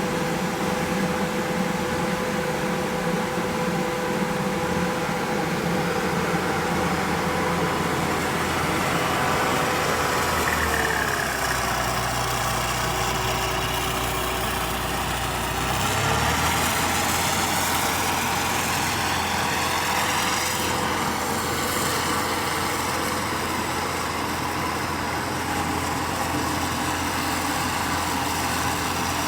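An engine running steadily. About eleven seconds in, its pitch drops for roughly five seconds, as if it is bogging under load, then it comes back up to speed.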